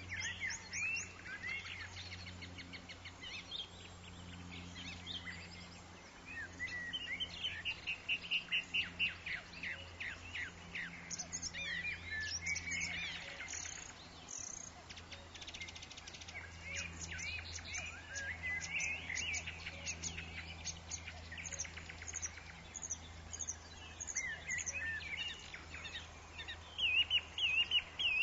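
Many birds singing and calling over one another in a forest, with quick repeated trills and chirps, the chirps louder and more rapid near the end. A faint low steady hum runs underneath.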